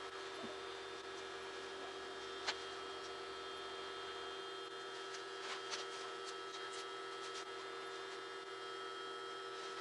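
Steady, faint hum of several level tones, with a few faint clicks scattered through it.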